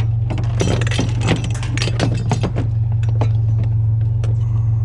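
Loose metal parts clinking and rattling as they are handled, a quick run of light clicks over the first three seconds or so, above the steady low hum of an idling vehicle engine.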